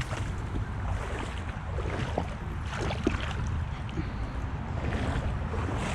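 Shallow creek water splashing and sloshing around wading steps, with wind rumbling on the microphone.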